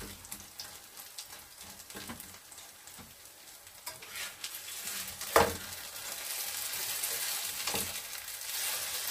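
Pork kimchi pancakes (kimchi jeon) sizzling as they fry in a pan, with a metal turner scraping and tapping against the pan. A sharp knock about halfway through is the loudest sound, and the sizzle grows louder in the second half.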